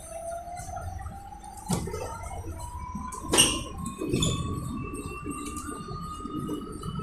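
Electric bus's traction motor whining, rising steadily in pitch as the bus accelerates, over the low rumble of the ride. Two sharp knocks come about one and a half seconds apart, the second louder.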